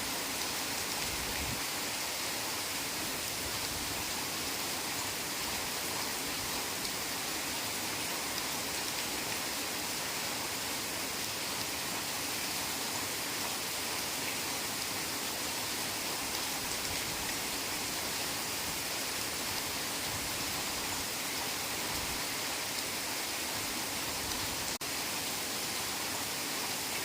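Heavy rain falling steadily, an even hiss at a constant level. There is one faint click with a momentary drop in level near the end.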